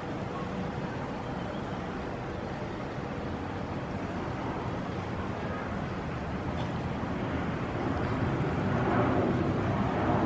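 Jet airliner flying over, a steady rumble that builds louder over the last few seconds.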